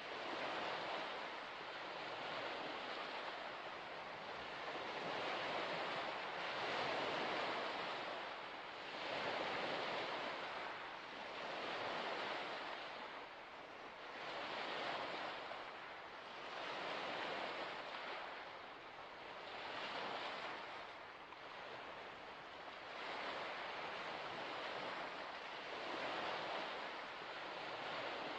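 Small waves washing onto a shore, each swell rising and falling about every two to three seconds.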